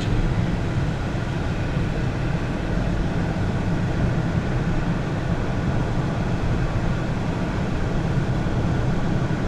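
Steady low rumble of moving vehicles: engine and road noise that holds even throughout.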